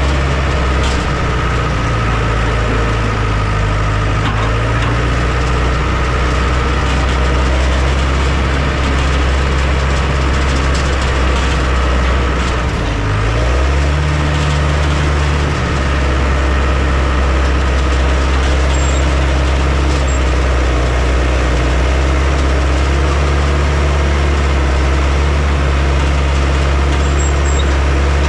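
Heavy diesel engine of earth-moving machinery running steadily; its pitch steps up about halfway through and holds there.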